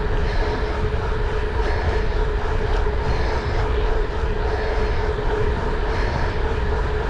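A steady engine drone: even rumbling noise with a constant hum that does not change.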